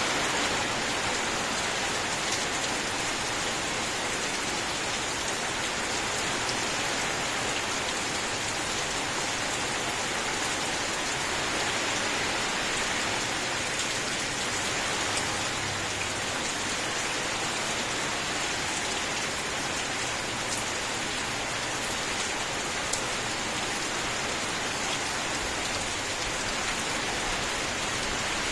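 Steady heavy rain falling, an even hiss with occasional faint drop ticks.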